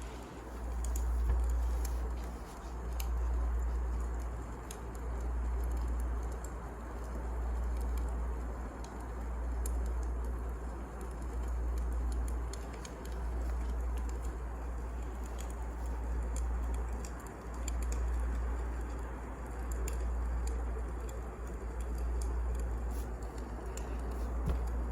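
Wood fire burning in a fireplace: scattered small crackles and pops over a deep rumble that swells and fades about every two seconds.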